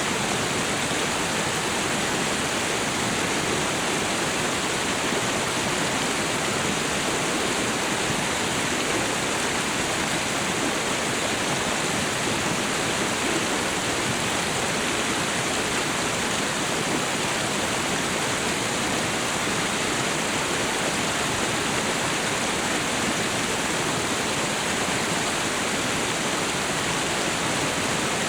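Waterfall and river water rushing in a steady, unbroken roar.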